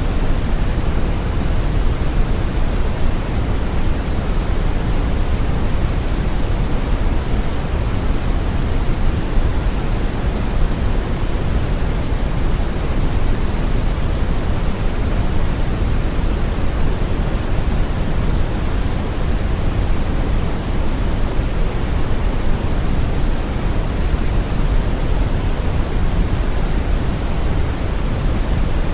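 Steady brown noise: a deep, even rushing hiss, heaviest in the bass and rolling off toward the treble, with no changes or events.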